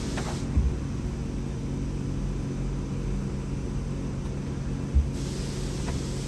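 Ford 7.3 Powerstroke V8 turbodiesel running steadily, with two brief low thumps, one about half a second in and one near five seconds.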